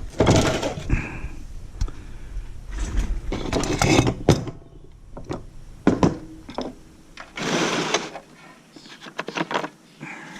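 Irregular clunks, knocks and clicks of salvaged hospital electronic equipment and its metal parts being handled and shifted about during scrapping. There is a longer sliding scrape at the start and another about three-quarters through.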